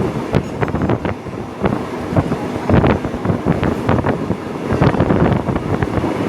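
Train running at speed: irregular knocks and rattles of wheels and running gear over the track, with heavy wind buffeting on the microphone.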